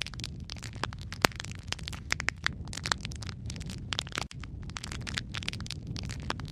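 Log fire in a fireplace crackling, with dense irregular pops and snaps over a steady low rumble of the flames; one sharper pop about a second in.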